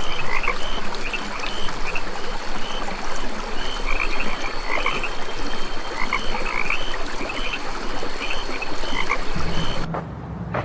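A dense chorus of animal calls: short chirping calls repeating every half second or so over a thick background of calling, with a steady high-pitched whine. Near the end the chorus stops abruptly and a low hum takes over.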